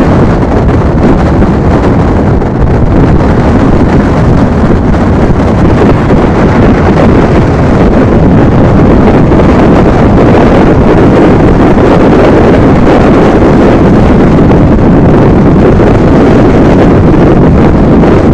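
Passenger train running at speed: a loud, steady rush of track and air noise, with wind buffeting the microphone.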